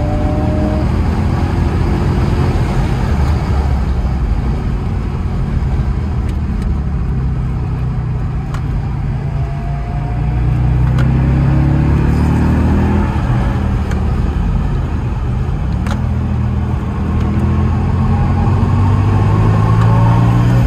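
Car engine and road rumble heard from inside the cabin while lapping a race track. The engine note climbs under acceleration from about ten seconds in, drops briefly, then climbs again near the end.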